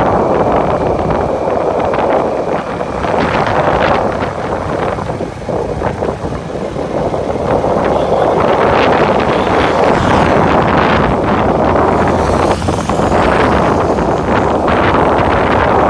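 Wind rushing and buffeting over the microphone on a moving bike, over a steady rumble of road and vehicle noise, swelling and easing a little.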